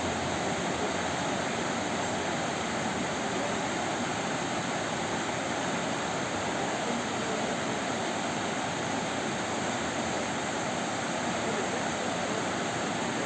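Youghiogheny River water flowing, a steady, unbroken rush.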